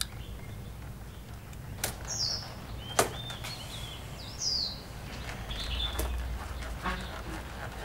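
Birds chirping: short calls repeating every second or two. Two sharp clicks come about two and three seconds in, over a low steady rumble.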